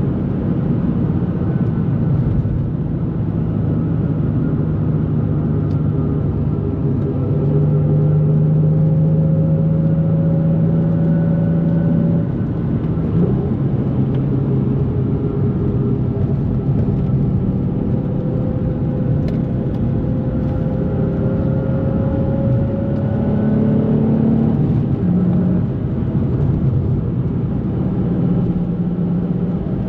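2004 Nissan 350Z's 3.5-litre VQ35DE V6 running under way at moderate revs. The engine note climbs slowly while pulling in gear and drops in pitch at an upshift about twelve seconds in. It climbs again and drops once more near the end.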